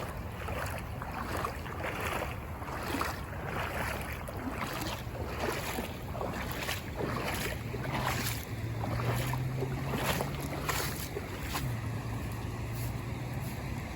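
Rubber boots wading through shin-deep flood water, a steady walking rhythm of sloshing splashes about one step every three-quarters of a second. A low steady hum joins about halfway through.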